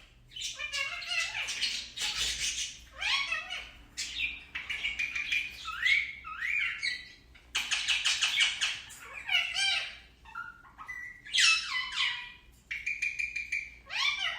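Indian ringneck parakeet talking and chattering: a rapid, nearly unbroken stream of high chirps, squawks and rising and falling whistled notes.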